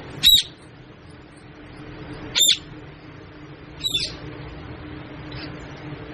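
Pet parrot giving three short, shrill squawks about two seconds apart, with a fainter fourth call near the end, over a steady background hum.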